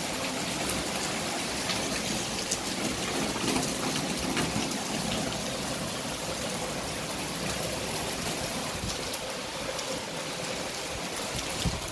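Rain falling in strong wind: a steady rushing noise with scattered faint ticks of drops.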